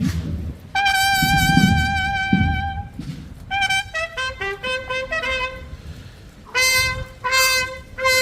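Solo trumpet playing a slow melody: a long note held with slight vibrato, then a run of short notes, then longer, lower notes.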